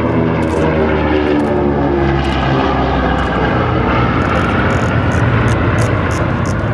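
The B-29 Superfortress's four Wright R-3350 eighteen-cylinder radial engines and propellers droning loudly in a low flyby. The engine note drops in pitch as the bomber passes.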